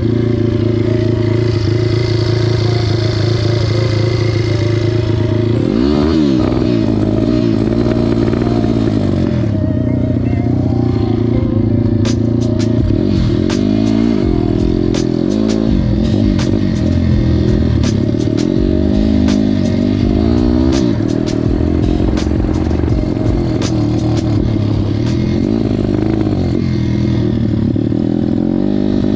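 Off-road motocross engine running hard on a dirt track, its pitch falling and rising again and again as the throttle is rolled off and opened, with scattered sharp clicks over it.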